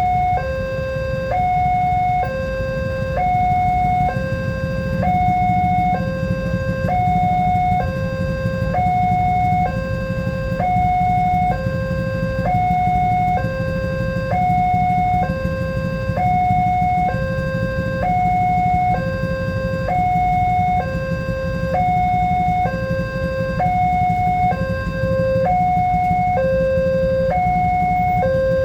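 Electronic warning alarm of a railway level crossing sounding a continuous two-tone signal: a higher tone and a lower tone alternate, each held about a second, repeating steadily. A steady low rumble runs beneath it.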